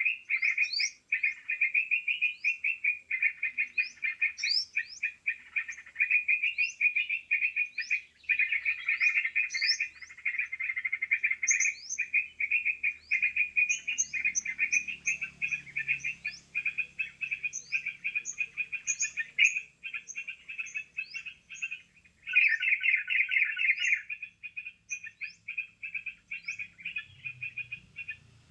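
Bird-lure recording of yellow-vented bulbuls (trucukan) calling: a dense, continuous chatter with many short rising whistles above it, broken by brief pauses a second in, around eight seconds in and around twenty-two seconds in.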